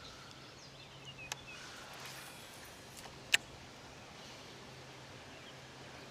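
Quiet outdoor river ambience with faint bird calls, broken by a small click just over a second in and one sharp click a little past three seconds in.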